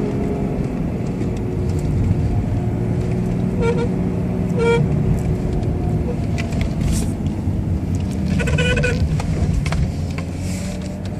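Omega car's steering column making short pitched squeaks over the steady engine running: two brief squeaks about four and five seconds in, and a longer one around eight and a half seconds in. This is the strange noise from the steering column.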